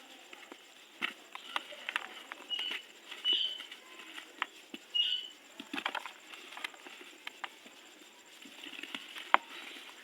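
Dry, dusty, crunchy material being crumbled by hand in a tub: irregular crunches and crackles, with the sharpest snap about nine seconds in and a few short high squeaks in the first half.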